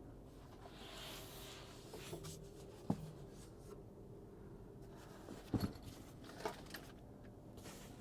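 Faint handling of a guitar and its case: a few short sharp clicks and knocks, one about three seconds in and a few more in the second half, over quiet room noise.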